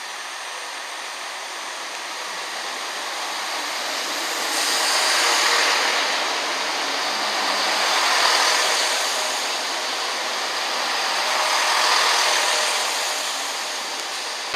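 A train passing on the railway: a rushing noise of wheels and running gear that grows louder about four seconds in, swells and eases three times, and fades slightly near the end.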